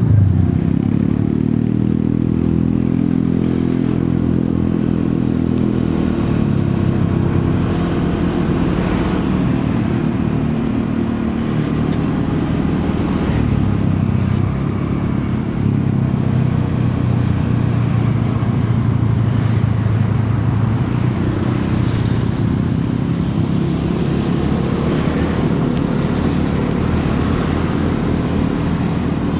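Motorcycle engine running while riding through city traffic, its pitch rising and falling a few times as it speeds up and slows, over steady road and traffic noise.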